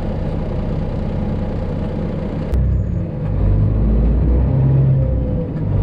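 Cab of a Freightliner Classic XL semi truck rolling in traffic: a steady low diesel engine and road rumble. About two and a half seconds in there is a sharp click, and the low rumble grows louder from then on.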